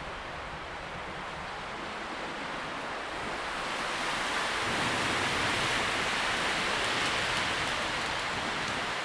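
Wind rustling through tree leaves, a steady hiss that swells into a stronger gust about four seconds in and eases slightly near the end.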